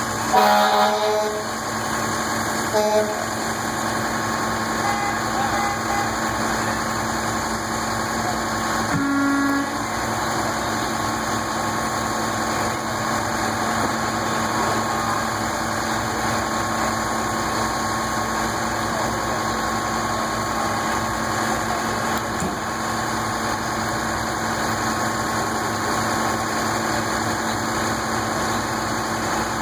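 Steady outdoor din of vehicles running, with distant voices, and a few short vehicle horn toots in the first ten seconds.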